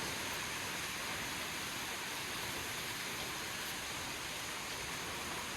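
Steady rushing of river water in a gorge, an even hiss without breaks.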